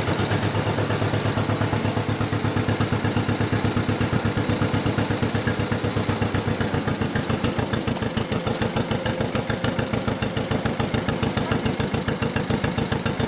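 1955 John Deere 40 S two-cylinder tractor engine running steadily, an even, rapid putting beat.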